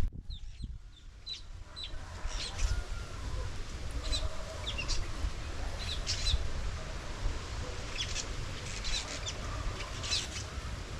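Chickens clucking in a farmyard, with short high chirps scattered throughout over a low steady rumble.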